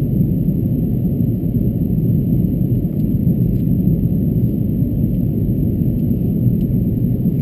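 Steady deep rumble inside the cabin of an Airbus A330-200 in flight on its descent: engine and airflow noise, with no change in pitch or level.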